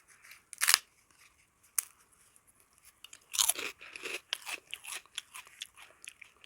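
Close-up biting and crunching of crisp food: one loud crunch under a second in, then a few seconds of repeated crunchy chewing.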